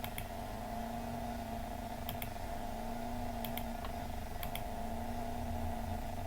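Computer mouse clicking: about four pairs of short sharp clicks a second or two apart, over a steady electrical hum.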